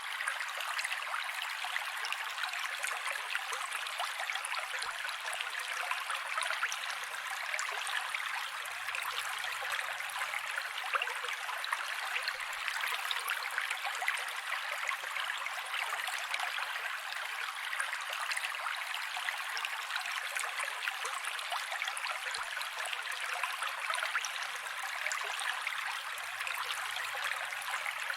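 Mountain creek flowing over rocks: a steady rushing, splashing noise that stays even throughout, with no low rumble.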